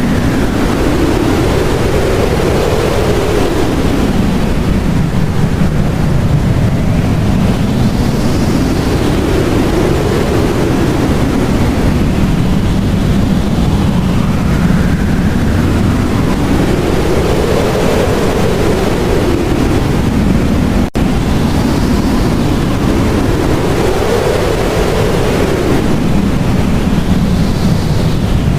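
Blizzard wind: a loud, steady rush with gusts that whistle up and then down in pitch every few seconds. It breaks off for a split second about three-quarters of the way through.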